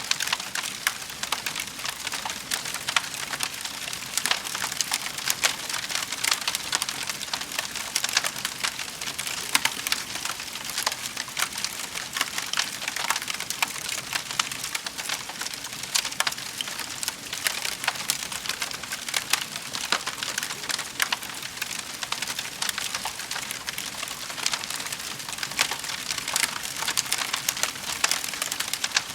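Wood fire burning in a fireplace, crackling and popping with many small irregular snaps over a soft hiss.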